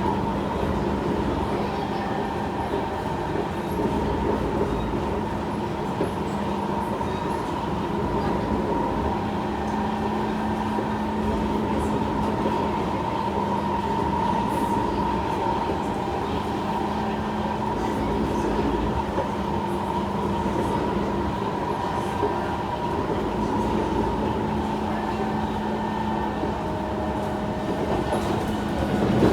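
Kawasaki C151 electric multiple unit running at steady speed, heard from inside the train: a continuous rumble of wheels on track with a steady, even whine.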